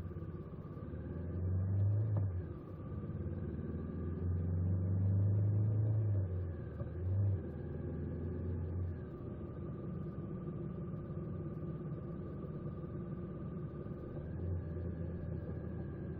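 A vehicle engine speeding up in several surges of rising pitch over the first half or so, then running on at a steadier drone.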